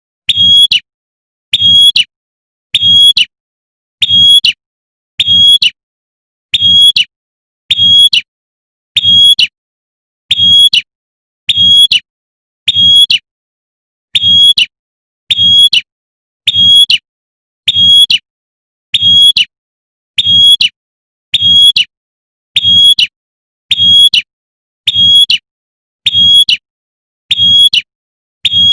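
A female prinia (prenjak) giving a sharp, high call over and over at an even pace, about once every 1.2 seconds. It is the female's call to a male, played as a lure.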